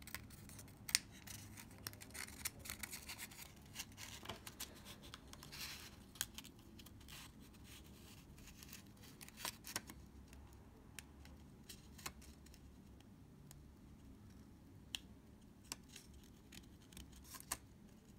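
Faint, scattered small clicks and scratches as paper, tape and small tools are handled at a Leica II D's shutter rollers. The sounds are busier in the first six seconds and thin out to occasional ticks after that.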